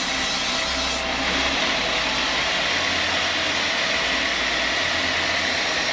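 Sawmill machinery running steadily, a continuous mechanical drone with a steady whine, with no audible cut into wood.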